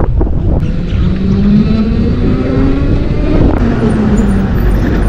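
Riding noise on a Zero electric motorcycle: steady wind and road rumble, with a faint tone that rises slowly in pitch, then a falling one near the end.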